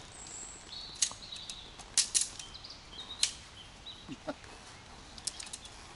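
A few sharp clicks and taps from handling tent pole sections, with short high bird chirps in the background.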